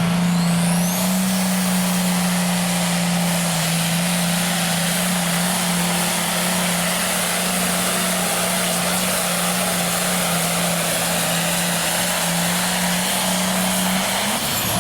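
Hot farm class pulling tractor's diesel engine held at full throttle through a pull, a steady high-revving drone with a high whistle that rises in the first second. The engine pitch steps up slightly about a second in and falls away near the end as the pull ends.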